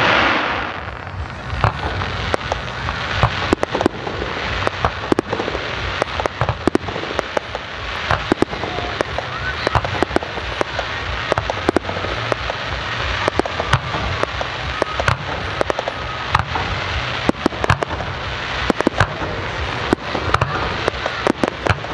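Fireworks display: a rapid, continuous run of sharp bangs and crackling pops over a steady background hiss, with a loud burst right at the start.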